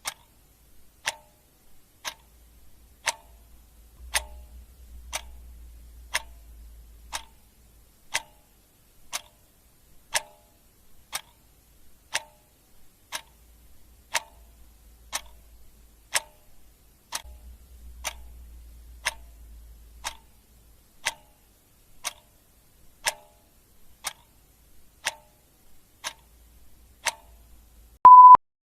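Clock ticking steadily, one tick a second. Near the end, a short electronic beep on a single steady tone, louder than the ticks.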